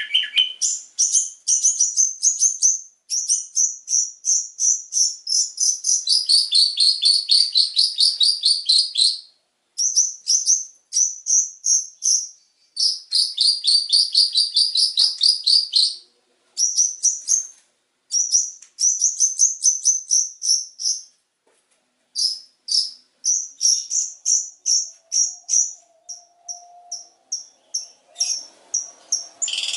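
Long-tailed shrike (cendet) singing rapid-fire 'tembakan' song: long trains of sharp, rapidly repeated high chirps in bursts of a few seconds, with short breaks between them. Near the end the notes slow to a spaced series of single chirps.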